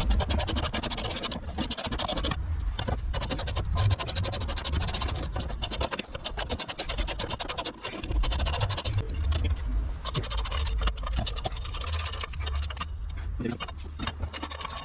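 Metal tools scraping and clicking against car parts in irregular strokes, over a low rumble.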